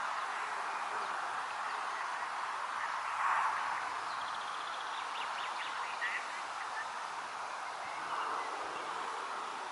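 Wind rustling through the vegetation around a pond as a steady hiss, swelling about three seconds in and again near the end. A few faint, short animal calls, frog or bird, come through in the middle.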